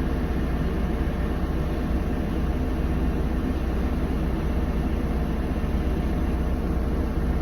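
Steady low drone of a running engine with a constant hum, unchanging throughout.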